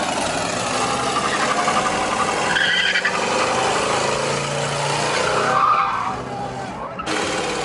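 A car's tires screeching as it skids and slides under power, with the engine running hard underneath. The sound changes abruptly about seven seconds in.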